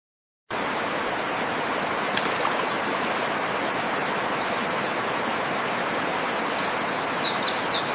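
Steady rushing water of a stream or river, with a few faint high bird-like chirps near the end.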